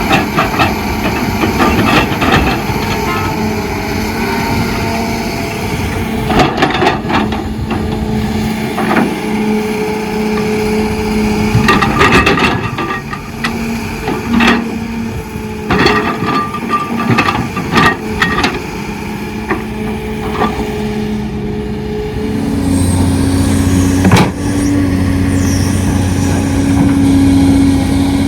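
Diesel engine of heavy construction machinery running, with repeated sharp clanks and knocks of metal and material. About 23 seconds in the engine sound changes to a lower, steadier drone, with one more sharp knock a second later.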